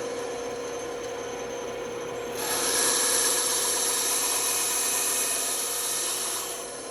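Band saw running with a steady motor hum. From about two seconds in until shortly before the end, its blade cuts through wood, a louder hissing rasp, which stops near the end while the motor keeps running.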